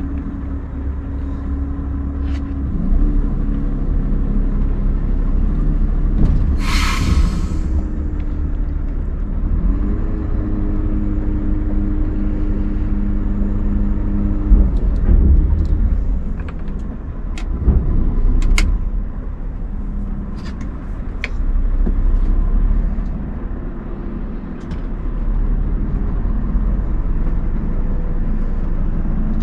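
Scania R580 truck's V8 diesel engine running under manoeuvring, its note rising and falling several times. A short hiss of compressed air comes about seven seconds in, with scattered clicks.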